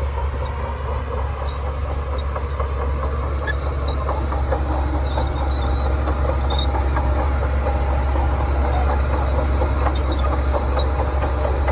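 Shantui DH17C2 crawler bulldozer working: its diesel engine runs with a steady low drone under the dense clatter of its steel tracks, growing a little louder about four seconds in.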